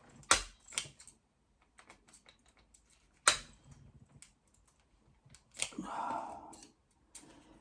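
Sharp clicks and knocks of hand tools being picked up and worked, with scattered small ticks between and a brief scraping rustle near the end.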